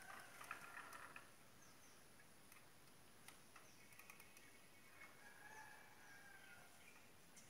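Faint bird calls over a quiet background: a cluster of calls in the first second and another around five to six seconds in, with short high chirps in between.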